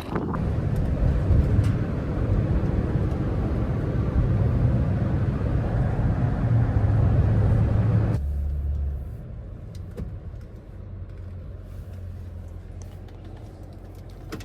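Truck driving, with engine and road noise; about eight seconds in it drops abruptly to a much quieter steady low engine hum.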